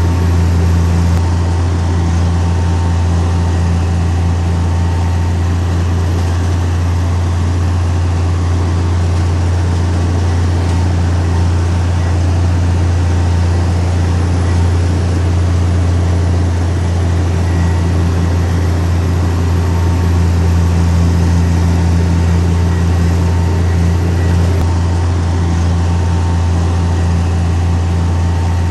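Heavy diesel engine of earthmoving machinery running steadily with a deep, even hum, unchanging throughout.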